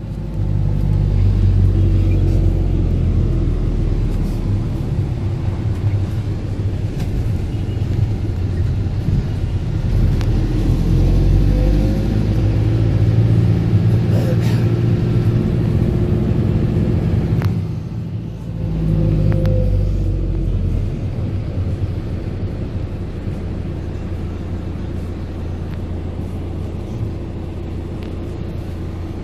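A car on the move: a steady low rumble of engine and road noise that shifts in pitch now and then and drops briefly about eighteen seconds in.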